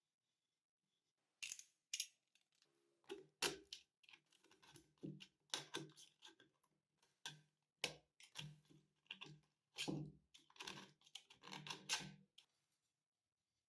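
Irregular run of small hard clicks and knocks, some with a short metallic ring, as parts of an old table fan are handled on the workbench; it starts about a second and a half in and stops shortly before the end.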